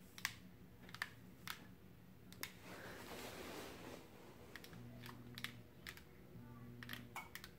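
Homestead Atlantis ceiling fan starting to turn again, heard faintly: a low motor hum that comes and goes in the second half, with scattered sharp clicks throughout.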